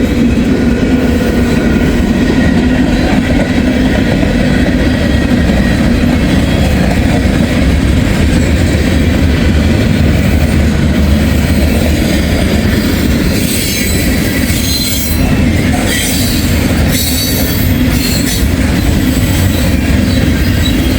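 Freight train rolling past on the rails: a steady heavy rumble of locomotive and wheels, with short high squeals and clatter from the wheels on the rails for a few seconds past the middle.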